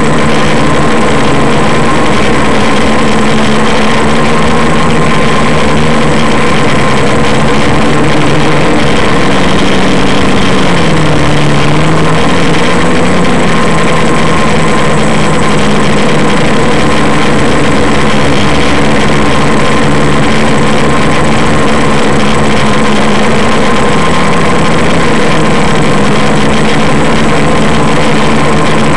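Quadcopter's electric motors and propellers buzzing loudly and steadily in flight, under a constant hiss. About ten seconds in, the motor pitch dips briefly and then climbs back with a throttle change.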